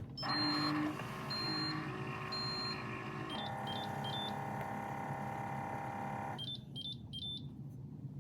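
Single-serve coffee maker beeping three times, about once a second, while its pump hums steadily. The hum shifts pitch about three seconds in and cuts off a few seconds later. A few faint, short electronic chirps follow.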